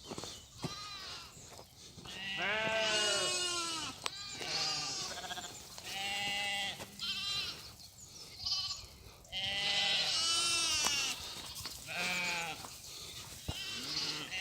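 Several Xalda sheep bleating, one call after another throughout, some long and some short and at different pitches, now and then overlapping.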